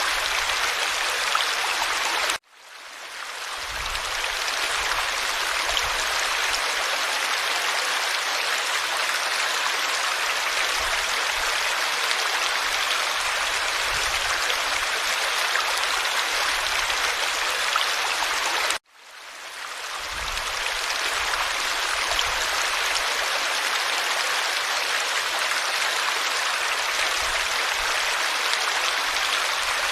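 Forest stream flowing steadily over stones, a dense even rush of water. Twice it cuts out suddenly and fades back in over about a second.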